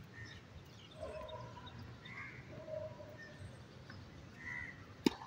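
Birds chirping in short calls every couple of seconds over faint outdoor background noise, with one sharp knock of a tennis ball near the end.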